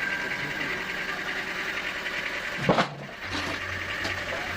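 Sawmill machinery running with a steady mechanical hum, broken a little past halfway by one short, loud sweeping sound, after which the hum briefly drops and then resumes.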